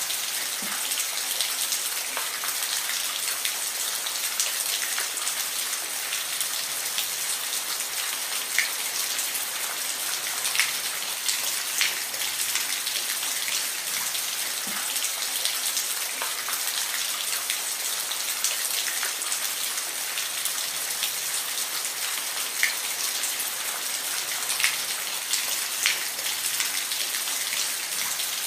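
Steady rain falling, a dense even hiss with occasional louder single drops ticking through it.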